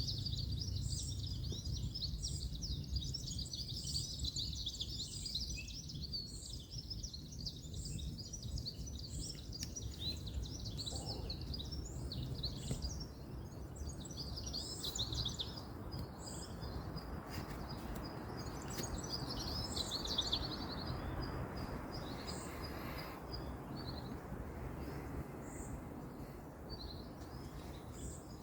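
Many small birds chirping and calling in woodland, with a high note repeating about once a second. Underneath is a steady low rumble of distant road traffic, and a soft broad hiss swells in the middle and fades again.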